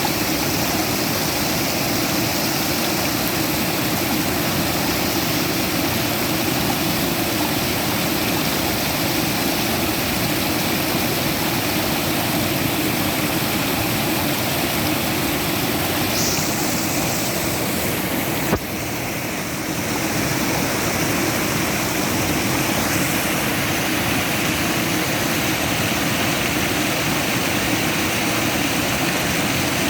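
Steady rushing of flowing water, like a stream or small waterfall, with one sharp click and a brief drop in level about two-thirds of the way through.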